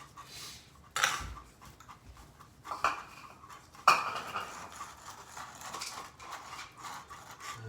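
Pet food bowls clattering as they are handled and set down, with a few sharp clinks, the loudest about four seconds in.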